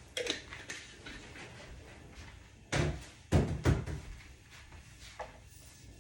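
A few sharp knocks and clatters of kitchen containers being handled and set down on a counter; the loudest come in a quick cluster just past the middle.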